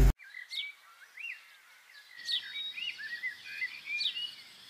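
Small birds chirping: a run of short rising-and-falling chirps with a few sharp downward-sweeping calls, fairly faint over a light background hiss.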